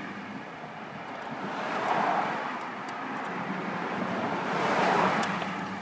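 Two vehicles passing by on a road, each a swell of tyre and engine noise that rises and fades, the second about three seconds after the first. A faint steady hum and a few light clicks sit underneath.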